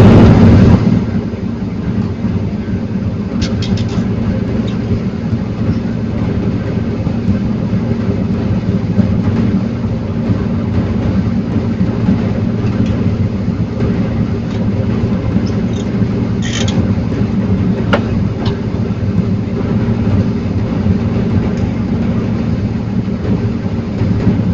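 Diesel engine of a forestry loading machine running steadily, with a few short, sharp metallic sounds about four seconds in and again past the middle.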